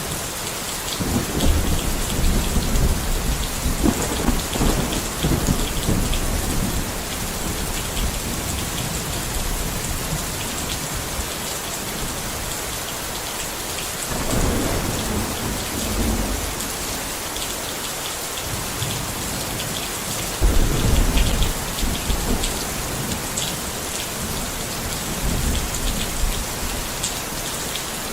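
Steady rain falling, with rolling thunder rumbling underneath: a long rumble through the first several seconds, another about halfway, and the loudest a little past two-thirds of the way in.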